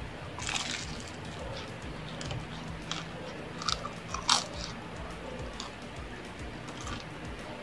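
Close-up eating sounds: crunchy bites and chewing of a fried turon, a banana spring roll with a crisp caramelized wrapper. Scattered short crunches and wet mouth clicks, the sharpest about four seconds in as fingers are licked.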